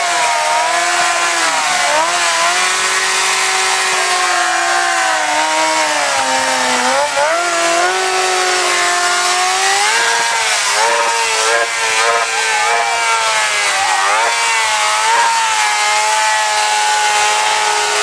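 Stunt motorcycle's engine held at high revs, its pitch wavering up and down with the throttle, dropping lower briefly a couple of times.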